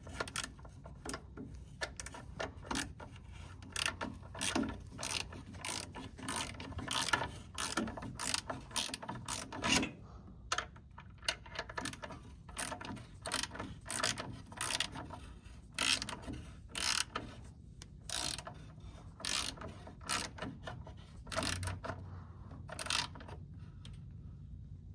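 Ratchet wrench clicking in repeated short runs as the oil drain plug is run in and tightened, to a 20 foot-pound torque spec.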